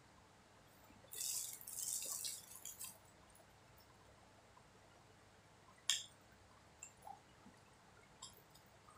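Wet chewing and mouth sounds of a person eating soft sweet martabak (thick Indonesian pancake): a crackly stretch of chewing from about one to three seconds in, then a sharp lip smack about six seconds in and a few fainter smacks after it.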